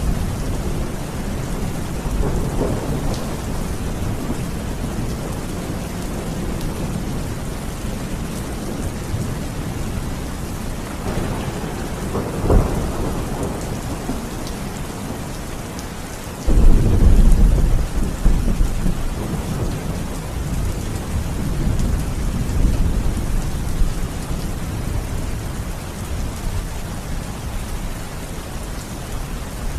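Steady heavy rain with thunder: a sharp crack about twelve seconds in, then a loud low rumble that starts suddenly a few seconds later and rolls away over several seconds.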